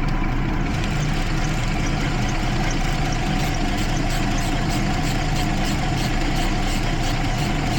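Jeep Liberty 3.7-litre V6 idling steadily while misfiring on two cylinders, 1 and 5, with faint regular ticking through it; the water soaking has exposed weak parts in the secondary ignition.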